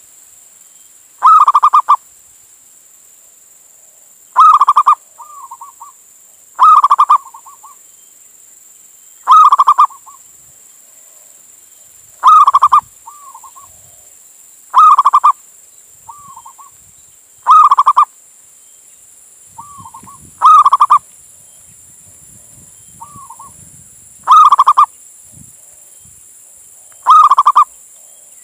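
Male zebra dove (perkutut) cooing to call a female: a loud, short coo phrase about every two to three seconds, ten in all, with softer, shorter coos between several of them.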